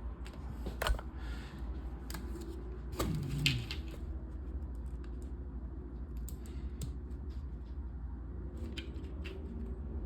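Small plastic LEGO pieces clicking and clattering as they are handled and snapped together during a build. There is a sharp click about a second in, a louder clatter around three seconds in, and lighter clicks later on.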